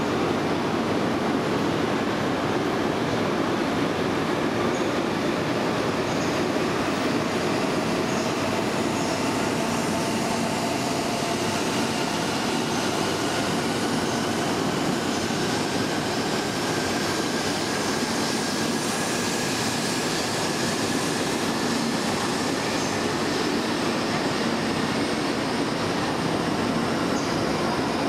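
A JR East E2 series 0 shinkansen pulling away from a station platform and gathering speed. Under its steady running rumble, the traction motors' whine climbs slowly in pitch through the middle as it accelerates.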